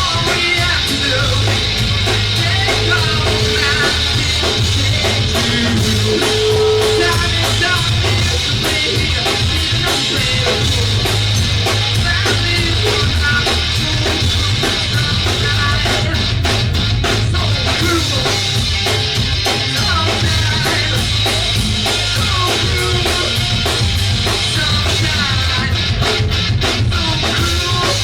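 A live band playing a song at full volume, drum kit among the instruments, with a heavy, steady bass and no break in the music.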